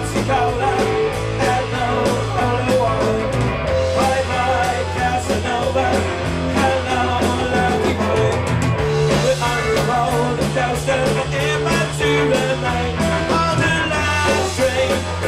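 Rock band playing loud music with electric guitar, bass and drums, a steady beat throughout.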